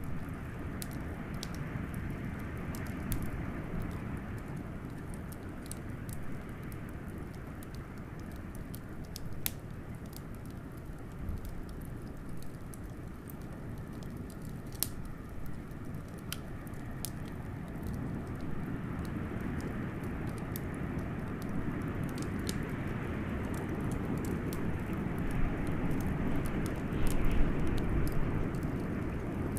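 Wood fire crackling with scattered sharp pops over a steady rush of blizzard wind, which swells and grows louder in the second half.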